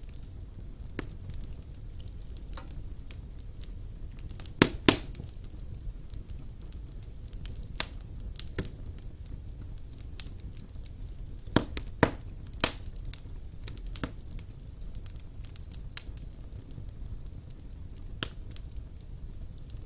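Wood fire burning in a fireplace: a steady low rumble of the flames with sharp pops and crackles of the burning logs, scattered irregularly, the loudest coming in quick clusters about five seconds in and again around twelve seconds.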